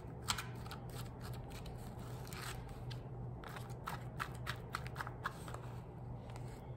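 Wooden ice-cream stick stirring sticky syrup-coated puffed rice in a paper cup: irregular crackling clicks and scrapes as the puffs rub against each other and the cup wall.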